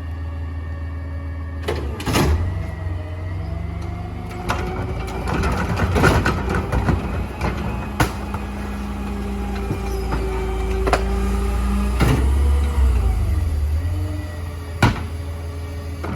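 Mini garbage truck's hydraulic packer running a compaction cycle over the engine's steady drone. A hydraulic whine rises and shifts in pitch through the middle, with several sharp metallic clanks scattered through it.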